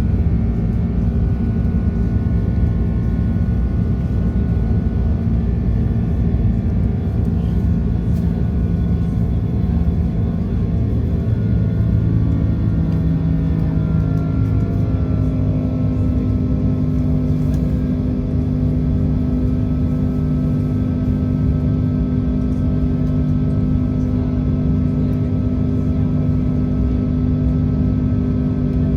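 Airbus A330-300 jet engines heard from inside the cabin: a loud, steady rumble with several engine tones that rise in pitch and settle higher about halfway through, as thrust comes up.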